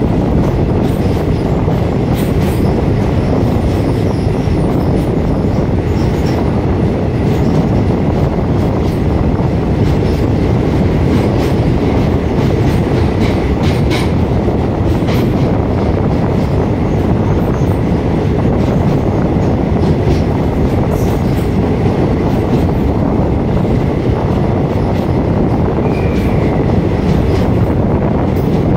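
Passenger train running through a narrow rock tunnel: a loud, steady rumble of wheels on rail, with a few clicks around the middle and a brief high wheel squeal near the end.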